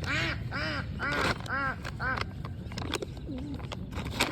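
A duck quacking: a quick run of about six nasal quacks in the first two seconds, then quieter.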